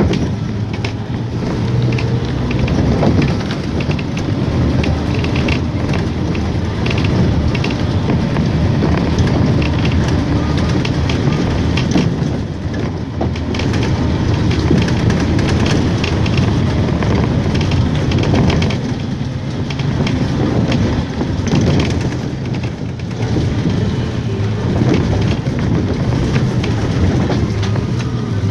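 A vehicle driving over a rough, broken road: a steady low engine hum under constant rattling and short knocks from the bumps.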